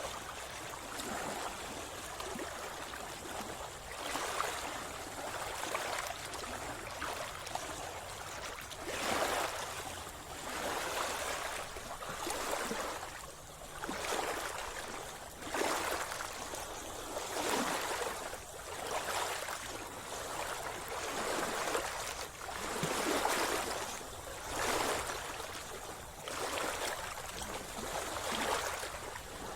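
Sea water splashing and gurgling close by as a swimmer strokes through it, swelling about every one and a half to two seconds.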